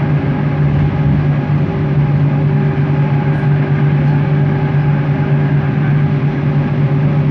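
Bombardier Innovia ART 200 linear-induction-motor train running at a steady speed, heard from inside the car: a steady low hum over rolling and track noise.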